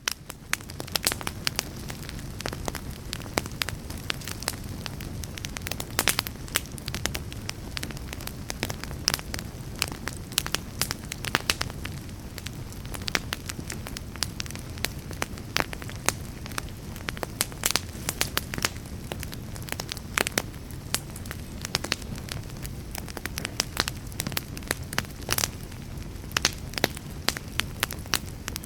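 Wood fire crackling, with many irregular sharp pops over a low steady rumble.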